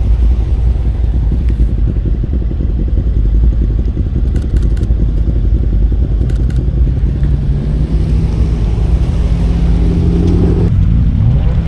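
Car engine and exhaust running close by with a rough, low note. Its pitch climbs briefly near the end, then drops away suddenly. A few short clicks sound about halfway through.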